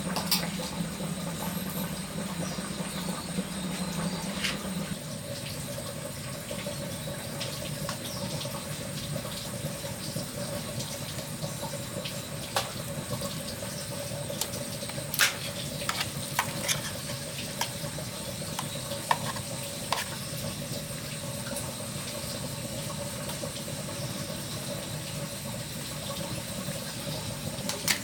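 Steady running water, with a few light clinks and knocks scattered through it.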